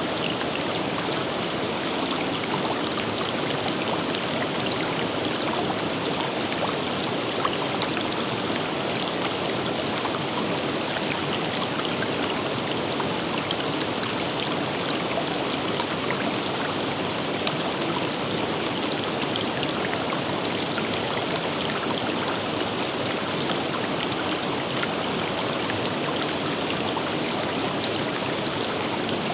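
River flowing over rocks: a steady, unbroken rush of water with fine splashing in it.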